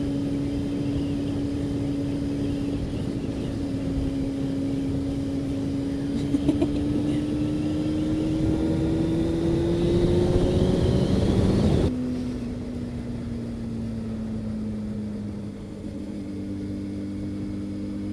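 Honda CB600F Hornet inline-four engine running at cruise under heavy wind noise, its pitch rising steadily as the bike speeds up. About twelve seconds in, the wind and engine drop suddenly and the engine pitch eases down as the bike slows.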